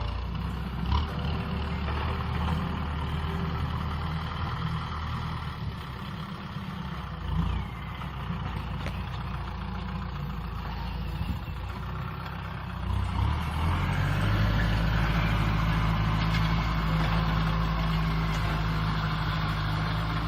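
Kubota M6040 SU tractor's diesel engine running steadily while ploughing, growing louder about two thirds of the way through and then holding even.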